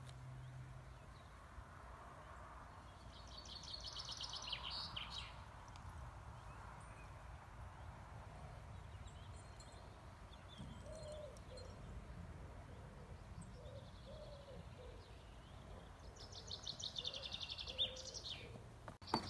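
Songbirds singing faintly: a rapid high trill about three seconds in and another near the end, with a few short lower calls in between, over a low outdoor rumble.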